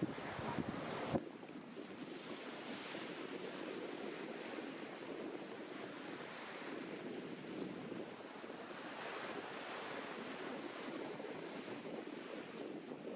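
Sea waves washing onto a beach, a steady rushing surf that swells and eases, with wind across the microphone. A few sharp knocks come in the first second before the sound changes abruptly.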